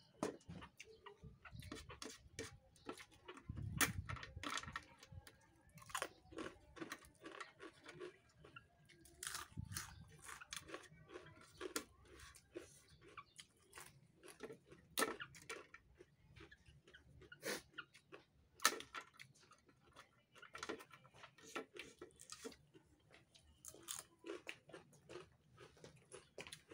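A person chewing raw vegetables close to the microphone: irregular, crisp crunches throughout, with a few sharper, louder crunches standing out.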